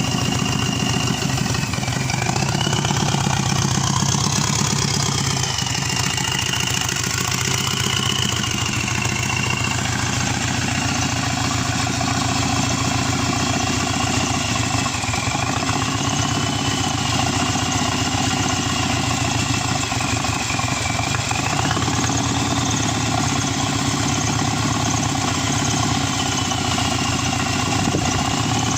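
An engine idling steadily, with a faint high whine that wavers slowly in pitch.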